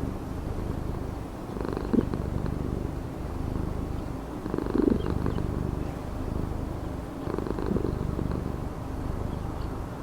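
Domestic cat purring steadily, the purr swelling and easing in a slow cycle about every three seconds.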